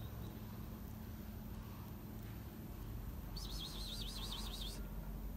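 A bird's rapid warbling trill, lasting about a second and a half, starting about three and a half seconds in, over a faint low hum.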